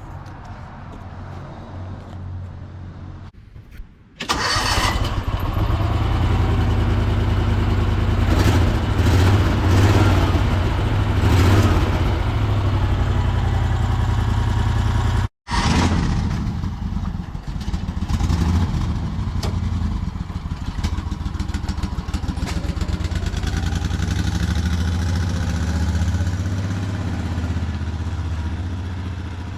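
The mail truck's Honda V-twin engine catches about four seconds in and runs loudly with a low, throbbing beat, its revs rising and falling now and then. The sound cuts out for an instant about halfway through.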